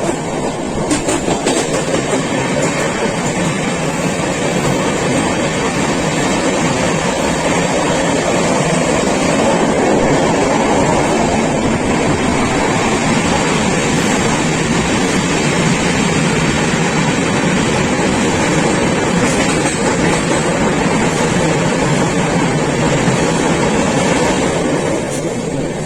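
A train running steadily: a loud, even rumble of wheels on rails that swells a little in the middle.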